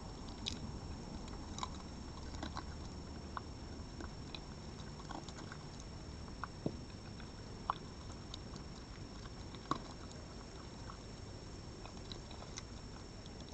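An animal eating food: irregular small crunches and clicks of chewing, with a few sharper cracks, over a steady background hiss.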